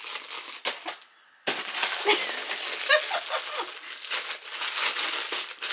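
Plastic packaging crinkling and rustling as an item is unwrapped and handled, with small rattles; it stops briefly about a second in, then carries on.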